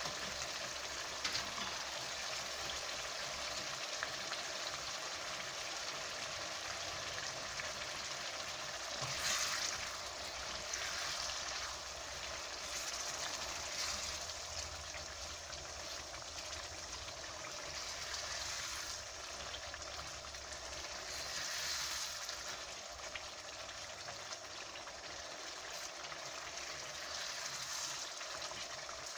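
Tomato and spice sauce sizzling and bubbling in a small saucepan, a steady hiss with a few brief louder swells as a silicone spatula stirs it.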